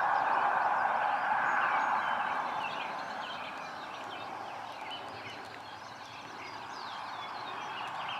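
Several small birds chirping and calling over a steady rushing hiss that is loudest in the first couple of seconds and then eases off.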